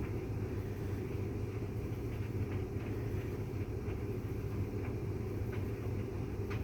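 Bosch tumble dryer and Miele W360 washing machine running together: a steady low hum and rumble, with faint irregular ticks from the drum.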